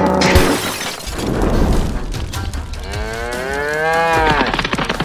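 A cow mooing: one long call about three seconds in that rises and then falls in pitch, with the tail of an earlier moo at the very start.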